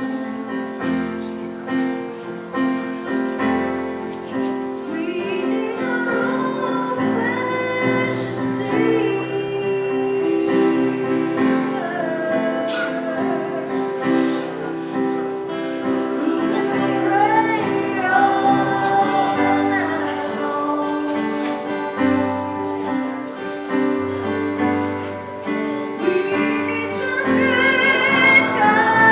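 A woman singing a slow worship song over sustained instrumental chords.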